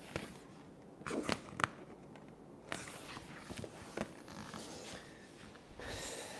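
Quiet handling sounds of vinyl wrap being worked onto a mini fridge: scattered small clicks and taps, with soft rustling of the film in between.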